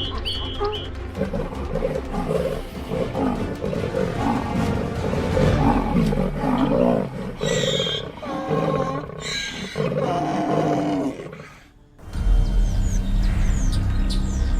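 Lions roaring and growling in a run of loud, rough calls lasting about ten seconds, over background music. After a short drop in level, birds chirp over a low rumble near the end.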